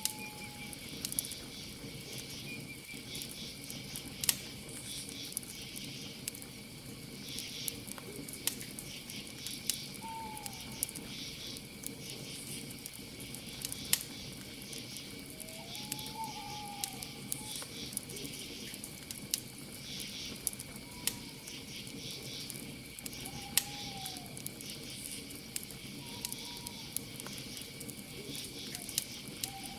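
Campfire crackling with scattered sharp pops, under a steady high cricket trill. Short rising-and-falling bird calls sound every few seconds.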